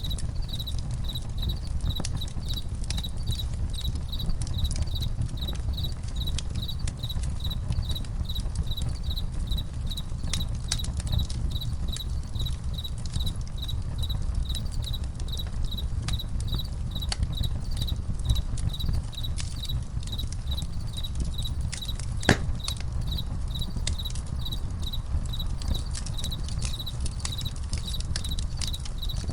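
Campfire crackling and popping over a low steady rumble, with one louder pop about two-thirds of the way through, while crickets chirp in an even, steady rhythm.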